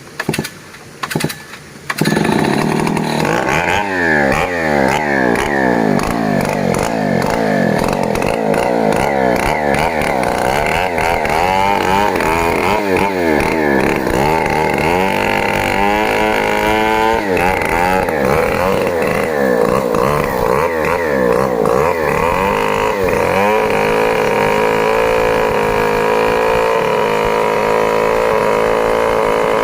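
Large two-stroke Stihl 070 chainsaw coming in suddenly about two seconds in and running loudly, its pitch sweeping up and down again and again as the revs change, then holding a steadier high pitch in the last few seconds.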